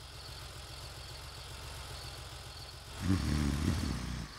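Cartoon car engine sound effect running with a low steady rumble, swelling louder for about a second from about three seconds in. Faint crickets chirp in a quick repeating pattern behind it.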